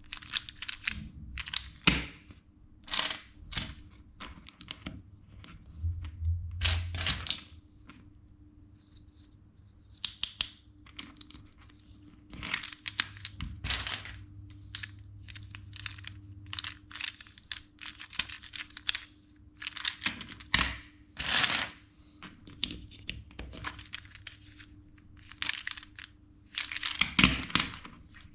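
Plastic LEGO bricks being handled and pressed together: irregular sharp clicks and snaps with short rustles of pieces, over a faint steady hum.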